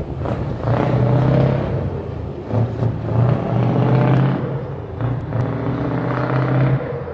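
Scania 144 530 V8 truck engine running, its sound swelling and dipping several times, then cutting off abruptly at the end.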